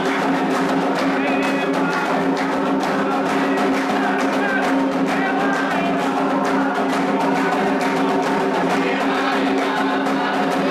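Candomblé ritual music for Ewá: a dense, steady beat of atabaque hand drums and struck percussion under sung chants.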